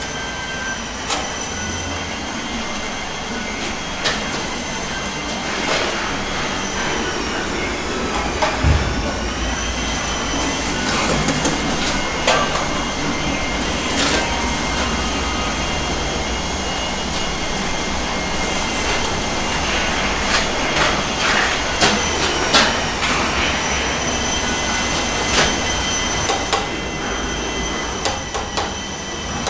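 Handheld electric mortar mixer running steadily with a whine that sags in pitch now and then under load, as its paddle stirs a bag of premixed cement mortar in a rubber tub, with scattered knocks and scrapes.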